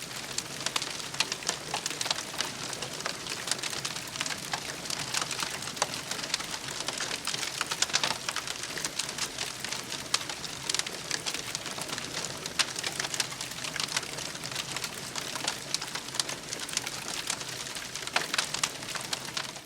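Campfire crackling: a steady, dense stream of small pops and snaps over a soft hiss.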